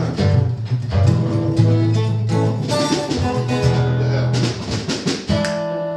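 Band instruments played loosely between songs: guitar and low sustained notes with scattered drum hits. About five seconds in they settle into a held chord.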